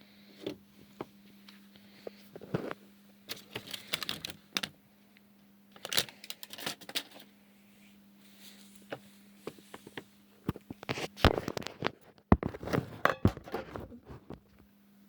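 Irregular bursts of sharp clicking and crackling in a small room, in three clusters, the loudest near the end, over a steady low hum.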